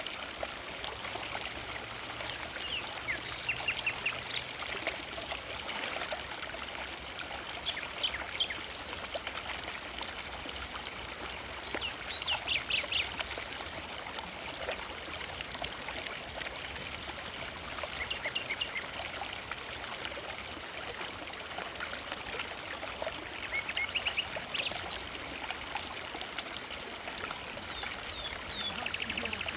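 River water flowing steadily over stones and branches. Short, high bird calls come every few seconds above it.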